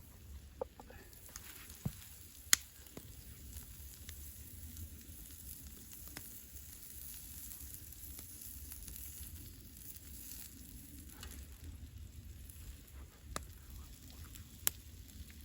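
Wild boar kebab meat sizzling over an open campfire, a steady hiss broken by a few sharp pops from the fire, the loudest about two and a half seconds in and another near the end.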